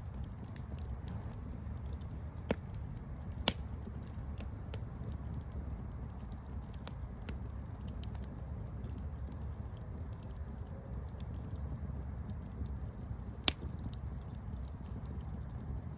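Campfire burning with a steady low rumble and scattered crackles and pops, three sharp pops standing out, about two and a half, three and a half and thirteen and a half seconds in.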